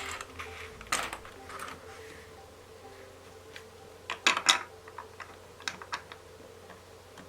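Small plastic LEGO pieces being handled, giving sharp clicks and taps: a few single clicks, then a quick cluster of louder clicks about four seconds in.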